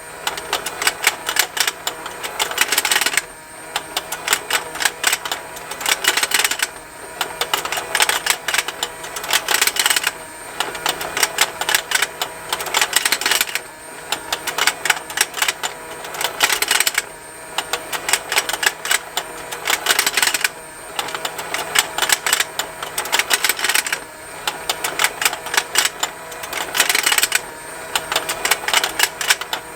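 Plastic fishing-lake toy running: its small motor hums steadily while the plastic snaps and ticks rapidly and continuously. The ticking comes in runs of about three seconds, broken by brief quieter gaps at a regular pace.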